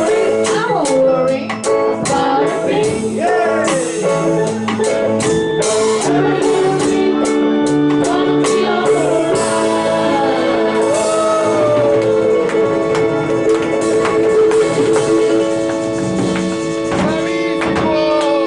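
Live band playing a reggae song: singing over guitar, drum kit and held chords.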